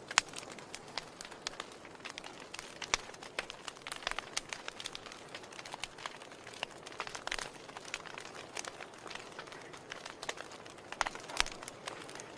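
Wood fire in a fireplace crackling: irregular sharp pops and snaps over a soft steady hiss, with a loud pop right at the start and a burst of pops about eleven seconds in.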